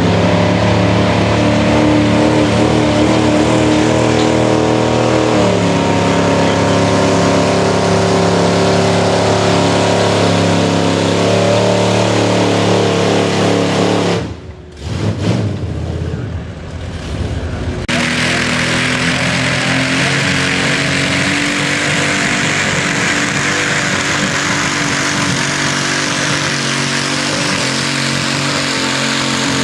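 Pulling truck's engine running hard at high, fairly steady revs, stepping in pitch a couple of times. There is a brief break about halfway, then the engine again under a loud hiss.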